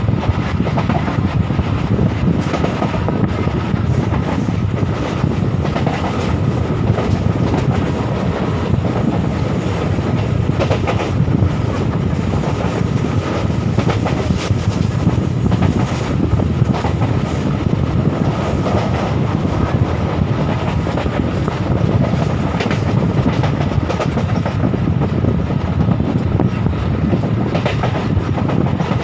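Passenger train running at speed, heard from inside a coach: a steady rumble of wheels on the rails with frequent clattering clicks.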